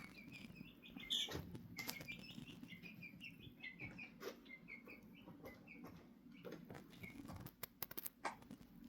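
Chickens chirping: a steady run of short, high peeps, about two or three a second, with scattered sharp taps and knocks among them.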